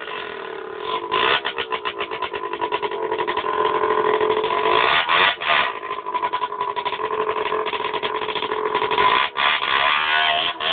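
Aprilia RS 50's single-cylinder 50 cc two-stroke engine running at high revs. Its pitch climbs over the first couple of seconds, then holds high, with brief drops about five seconds in and again about nine seconds in.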